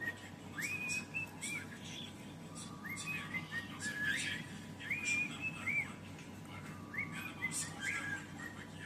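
Cockatiel whistling a short repeated phrase: a rising note held briefly, then a few quick arched notes, coming back every two seconds or so.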